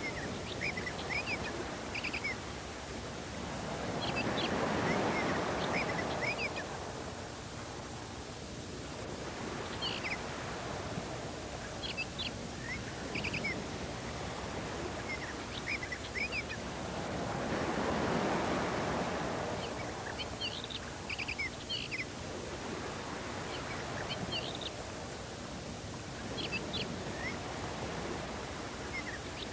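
Short, high chirps like small birds, scattered throughout over a steady hiss that twice slowly swells and fades.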